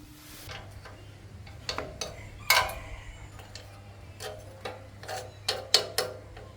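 Metal tools and parts clinking and knocking as they are handled, about ten sharp strikes with a short ring, the loudest about two and a half seconds in and near the end, over a steady low hum.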